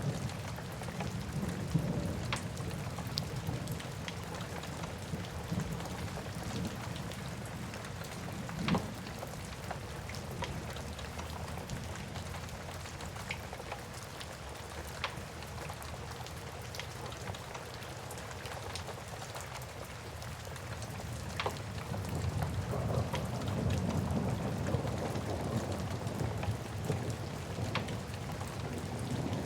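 Steady rain ambience mixed with a wood fire crackling, with a few sharp pops scattered through it. A low rumble underneath swells up near the end.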